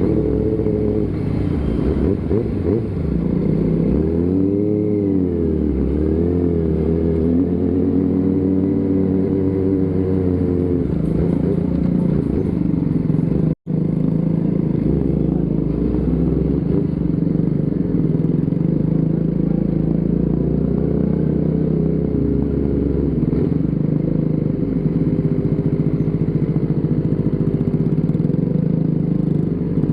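Motorcycle engine running on the move, its pitch rising and falling with throttle and gear changes, with a momentary break in the sound about halfway through.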